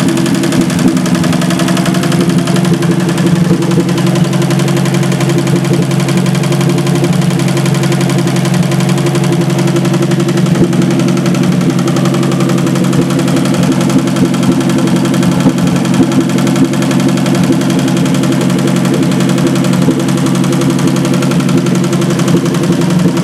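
Standard Triumph straight-six engine running at a steady, unchanging speed, with no revving.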